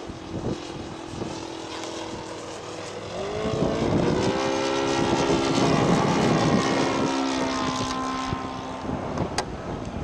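Engine of a radio-controlled scale model airplane passing overhead: its propeller note swells about three seconds in, is loudest in the middle, then slides slowly down in pitch and fades as the plane goes by.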